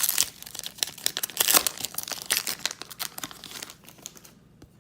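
A baseball card pack wrapper being torn open and crinkled in the hands: a dense run of crackles that dies away about four seconds in.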